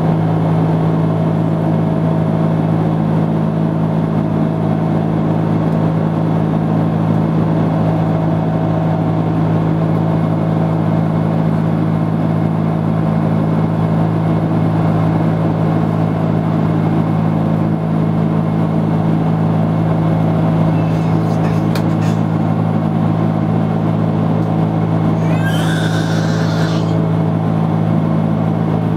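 Steady drone of an Airbus A330-300 cabin in flight: engine and airflow noise with a constant low hum. Near the end comes one brief, higher-pitched sound.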